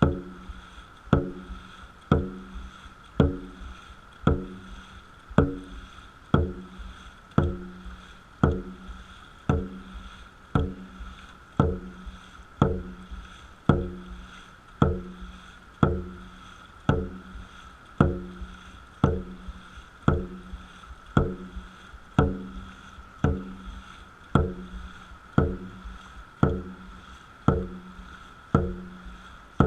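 Dragon boat drum beaten at an even pace, about one beat a second, setting the paddlers' stroke rate. Each beat is a sharp hit with a short low ring.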